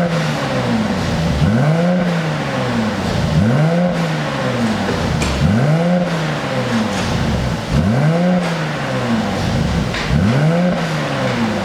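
Mercedes-AMG GLC 43's twin-turbo V6 free-revved repeatedly through an aftermarket dual valved exhaust, each rev rising and falling in pitch, about one every two seconds. A couple of short sharp cracks come from the exhaust about halfway through and near the end.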